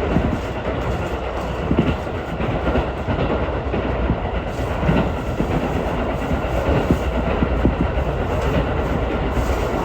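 Ichibata Electric Railway electric train running along the track, heard from inside the carriage: a steady rumble with intermittent clicking of the wheels over the rails.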